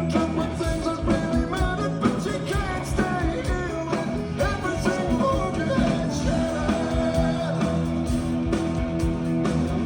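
Live rock band playing with a lead singer over drums, bass and guitar; the sung line stands out in the first half, then the band plays on under it.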